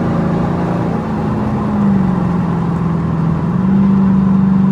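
Car engine running steadily at road speed. Its note drops a little around two seconds in, then rises again about three and a half seconds in as the throttle comes back on.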